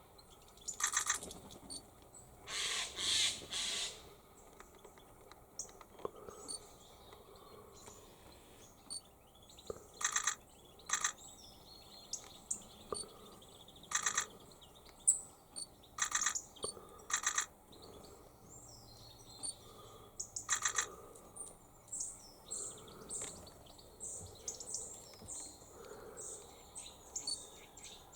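Wild birds calling and chirping: short, sharp high calls every few seconds over a background of faint, thin chirps.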